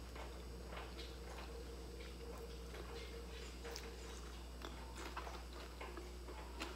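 Chewing and biting into crispy fried crackers (bánh chiên giòn): irregular crunches and mouth clicks, a few a second, close to the microphone.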